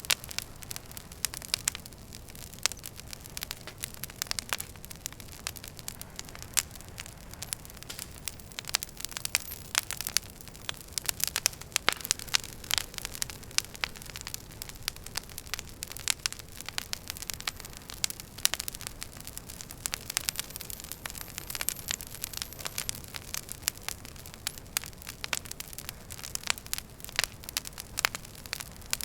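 Wood fire crackling in a fireplace: a dense, irregular stream of pops and snaps from the burning logs over a low rumble from the flames.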